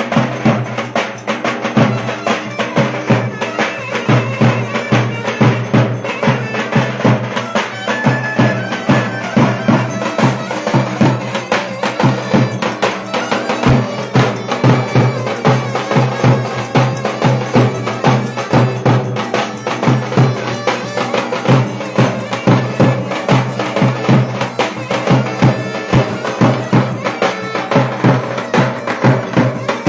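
Turkish folk dance tune (oyun havası) played on a reedy wind instrument over a steady drone, with percussion keeping a fast, even beat.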